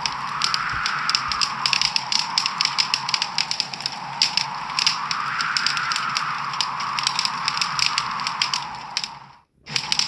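Wood fire crackling in a fireplace, a dense run of small quick pops and snaps over a soft hiss that swells and fades every few seconds. Near the end the sound fades out to near silence for a moment and then comes straight back.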